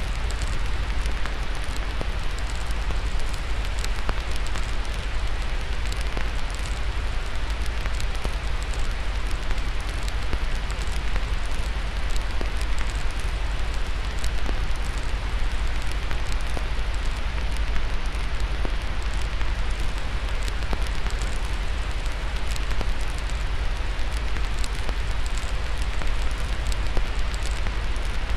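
Steady white noise with a crackling fire over it: frequent small pops and snaps scattered over a continuous hiss and a deep low rumble.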